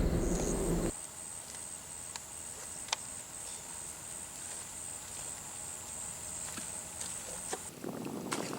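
Insects trilling steadily at a high pitch, with a few faint clicks. The trill stops near the end, where a louder rustling with clicks comes in.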